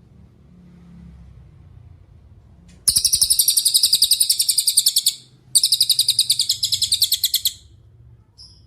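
Cililin songbird singing two rapid, high-pitched trills of about ten notes a second, each about two seconds long, with a brief pause between them. A short single chip follows near the end.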